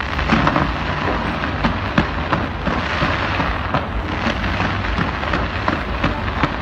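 Fireworks display fired from the sides of a skyscraper: many rapid bangs over a continuous crackling rush.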